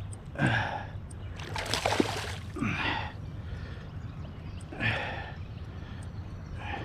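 Water sloshing and splashing around a kayak, in several short swishes about a second apart over a low steady rumble.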